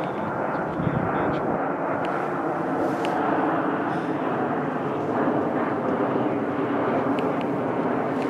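Fixed-wing airplane passing overhead, its engines a steady, continuous noise.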